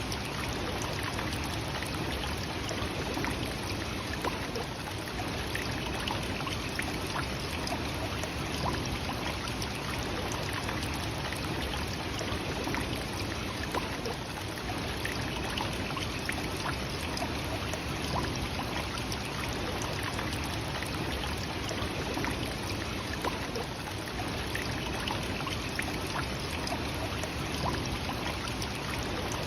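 Nachi Falls, a tall waterfall, pouring steadily: an even, unbroken rush of falling water.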